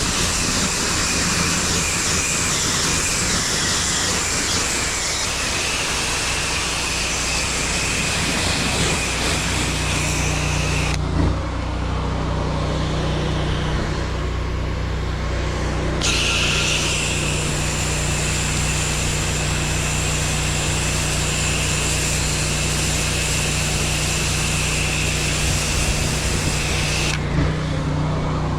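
Pressure washer with its engine running steadily and the spray hissing; the spray stops about eleven seconds in, comes back some five seconds later and stops again near the end while the engine keeps running.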